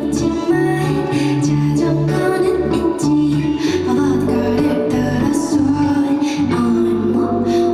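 Live band playing a song, with a steady drum beat under sustained bass and melody notes.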